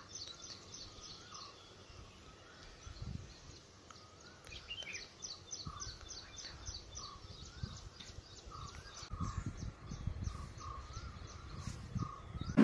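Birds calling outdoors: a fast run of high chirps, several a second, over a lower call repeated about once a second. Low rumbles come and go in the background from about three seconds in.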